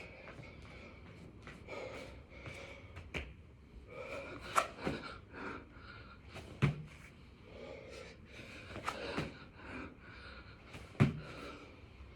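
A man breathing hard and heavily through a set of six-count burpees, with a sharp thud from his body or hands hitting the floor every few seconds.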